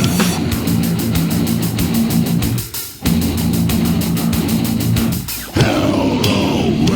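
Death metal: distorted electric guitar riffing over fast, even drumming. The music breaks off briefly twice, just before three seconds in and just after five seconds in. After the second break the guitar plays sliding, bending notes.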